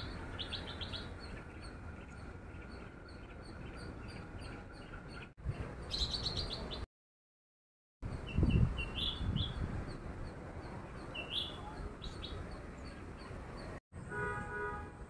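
Small birds chirping in the trees: short high notes repeated many times, over a low rumble of wind or handling noise on the microphone. The sound cuts out completely for about a second near the middle.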